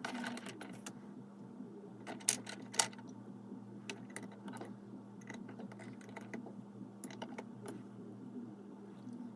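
Small plastic Lego pieces and minifigures clicking and tapping as they are handled and set in place, with two sharper clicks about two and a half seconds in.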